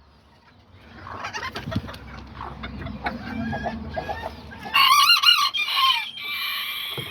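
Kikiriki bantam chickens clucking, with a rooster crowing loudly about five seconds in.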